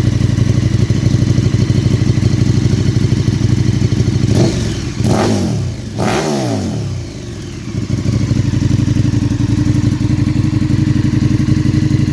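Twin-cylinder motorcycle engine idling, blipped twice about four and six seconds in, each rev rising and dropping quickly back to a steady idle.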